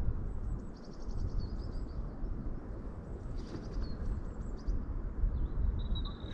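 A bird calling: two short runs of quick, high chirping notes, about a second in and again past the middle, over a steady low rumble.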